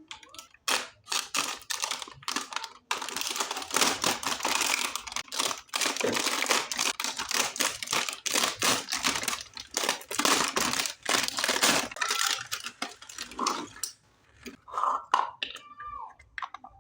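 Packaging crinkling and tearing in quick, dense crackles as a toy set is unboxed by hand. It thins out about two seconds before the end into a few short squeaky sounds.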